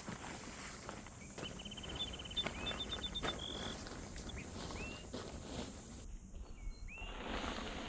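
Birds calling: short upward-hooked whistles and a fast trill followed by a quick run of short notes, over scattered ticks and a rustling that grows louder near the end.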